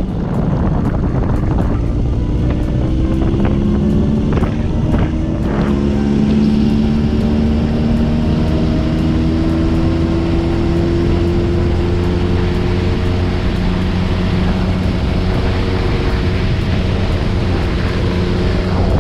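Motorcycle engine running while riding, its note climbing slowly and then holding steady, with wind noise on the microphone.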